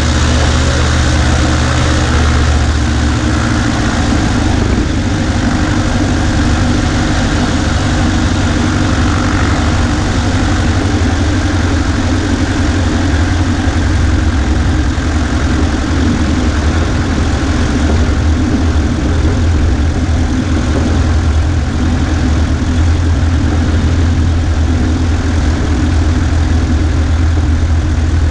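Cessna 140A's piston engine and propeller running steadily at low power, heard from the right wing. The engine note shifts slightly about four seconds in.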